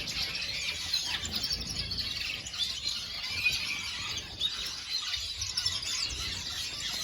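A mixed flock of canaries and small finches chirping and twittering together, many short high calls overlapping without a break.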